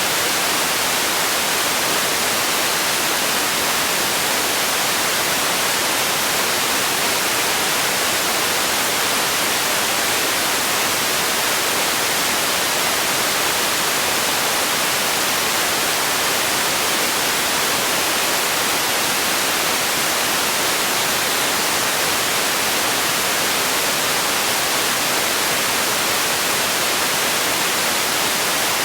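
Steady synthetic noise: an even, unchanging hiss like static, strongest in the high frequencies.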